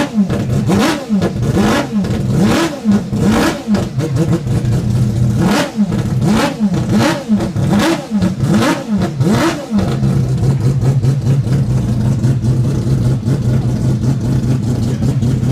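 Mazda 787B's four-rotor rotary engine being blipped over and over during warm-up, each rev rising and falling quickly. About ten seconds in, the blipping stops and the engine settles to a steady idle.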